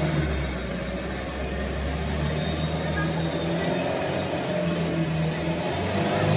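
A motor vehicle's engine running at a steady level, its pitch rising and falling slightly.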